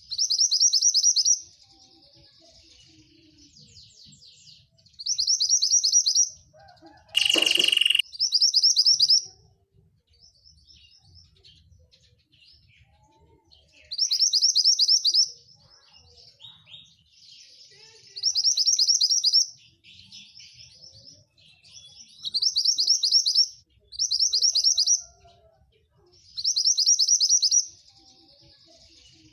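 Javan bush lark (branjangan) song: short, rapid, buzzy high trills about a second long, repeated every few seconds, with softer twittering between them. About seven seconds in comes one brief, loud, harsh note.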